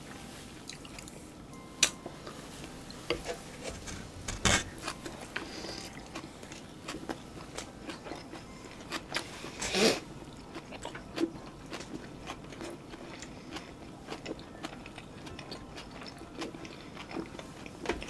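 Close-miked eating sounds: biting and chewing soft fried tofu pockets stuffed with rice and sauce, with many small wet mouth clicks and smacks. Three louder sharp knocks stand out, spread through.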